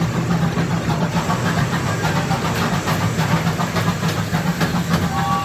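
Gas-powered replica steam train's engine running steadily as it pulls the cars, with light clicking from the wheels on the track, heard from aboard. A steady high tone starts just before the end.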